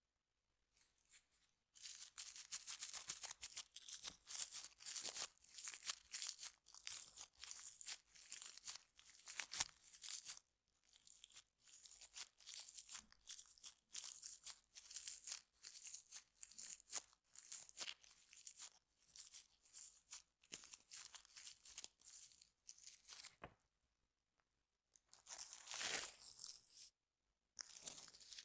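Small objects scraped and brushed across a microphone, close up: rapid runs of dry scratching strokes with a bright hiss, broken by a few short pauses.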